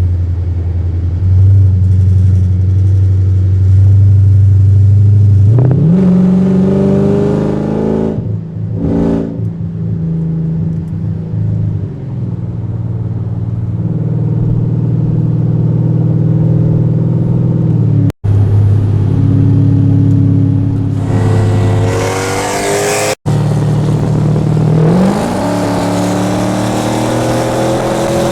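Mercedes-Benz E55 AMG 5.4-litre V8 engines and exhausts on the highway: a steady, loud drone at cruising speed broken by several hard accelerations in which the engine note climbs in pitch, about six seconds in, past the middle and again near the end. The sound cuts out abruptly twice.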